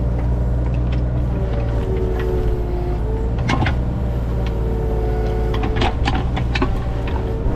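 Vehicle engine running steadily, with sharp rattles and knocks at intervals.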